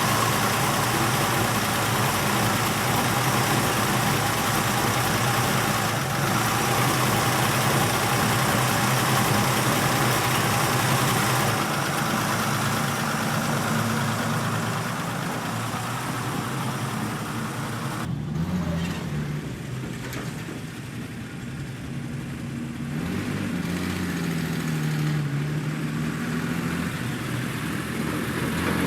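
1968 Ford Bronco engine running just after a start, idling steadily with a hiss over it. About two-thirds of the way through the hiss falls away and the engine note wavers up and down as the truck is moved.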